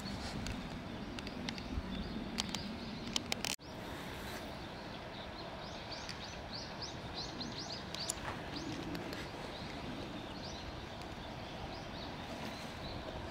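Small birds chirping outdoors: a run of short, high chirps repeated over a steady background hiss. A few faint clicks come in the first few seconds, and the sound drops out briefly about three and a half seconds in.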